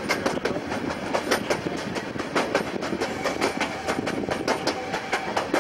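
Miniature railway train running, heard from aboard an open carriage: wheels clicking irregularly over the rail joints above a steady rattle and rumble.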